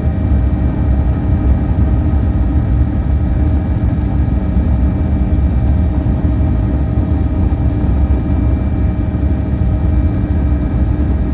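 Helicopter in flight, heard from inside the cabin: a loud, steady low rumble with a constant high-pitched whine over it.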